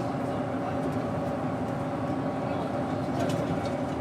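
Doosan GE12Ti natural-gas engine of a Daewoo BS110CN bus running at a steady pitch, with a few light rattles about three seconds in.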